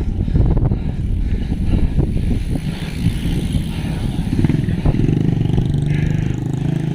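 Road traffic: a motor vehicle's engine running close by over rumbling road and wind noise, its hum growing steadier and stronger in the last two seconds.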